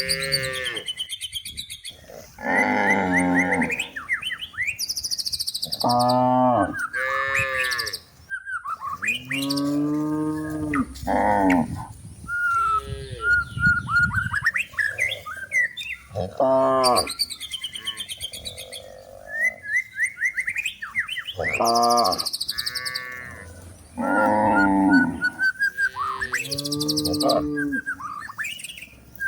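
Cattle mooing again and again, long calls following one after another with little pause, while small birds chirp in the gaps.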